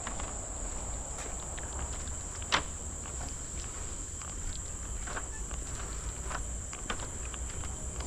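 A steady, high-pitched insect drone from the forest, with scattered footsteps and clicks on the trail, one sharper click about two and a half seconds in, over a low rumble.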